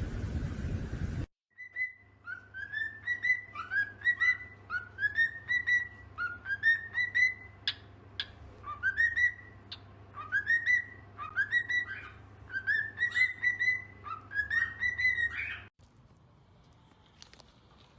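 A long series of short rising whistle notes, often in pairs, over a faint low hum; the whistling stops near the end.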